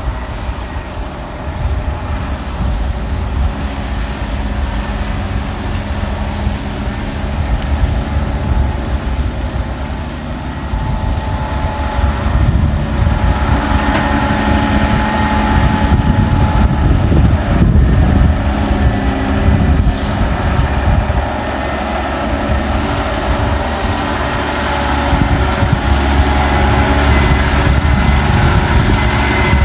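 Heavy diesel truck engine running under load, growing louder about halfway through, with one short hiss about two-thirds of the way in.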